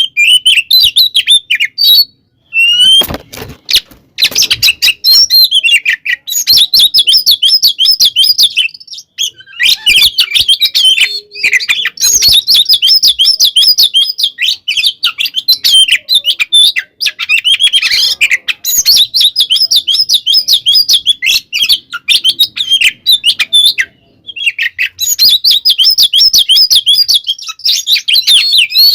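Oriental magpie-robin singing a fast, dense run of chirps, whistles and warbles. This is the frantic fighting song that keepers play to rouse other magpie-robins. The song breaks off briefly about three seconds in and again near the end.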